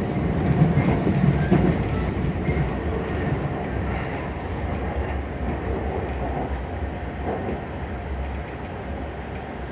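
JR Keiyo Line commuter train running, heard from inside the carriage: a steady rumble of wheels on the rails with a few light clicks, getting gradually quieter.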